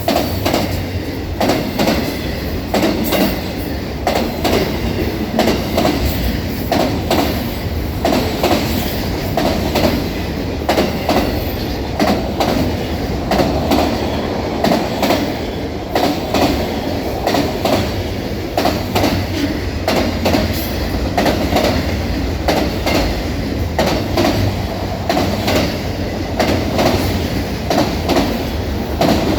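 Train rolling by, a continuous loud rumble with wheels clacking over the rail joints again and again.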